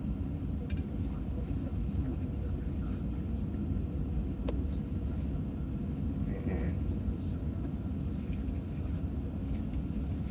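Steady low rumble, as of a running vehicle, with a few faint light clicks about a second in and near the middle.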